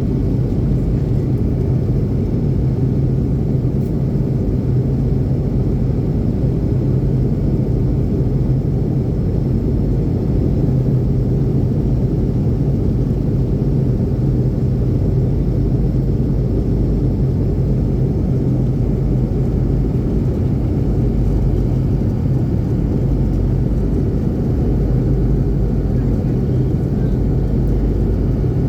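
Airplane in flight: steady engine and airflow rumble with a constant low hum, unchanging throughout.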